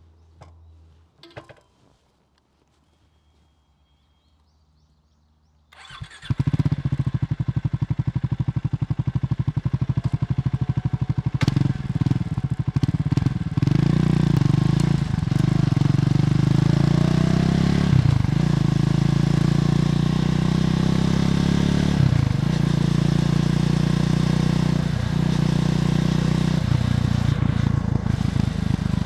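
Triumph Scrambler 400X's 398 cc single-cylinder engine through its stock exhaust: a few faint clicks, then about six seconds in the engine starts up and runs at a steady, loud note. From about twelve seconds on, the revs rise and dip briefly every few seconds.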